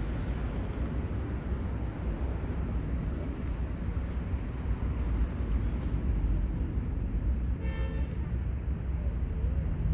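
Steady low outdoor rumble of distant engines, growing a little louder near the end. A short high-pitched beep sounds about three-quarters of the way in.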